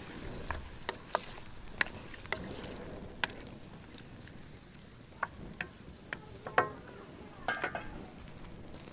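Raw chicken pieces frying in desi ghee in a steel karahi, sizzling quietly while a wooden spoon stirs them and knocks against the pan at irregular moments.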